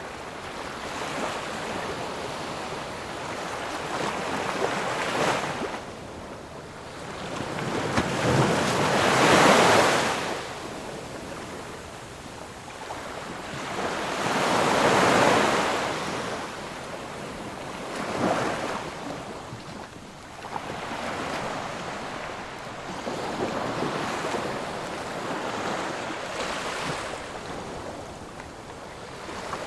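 Ocean surf: waves breaking and washing in slow surges, about six swells that each rise and fade over a few seconds, the loudest about nine and fifteen seconds in.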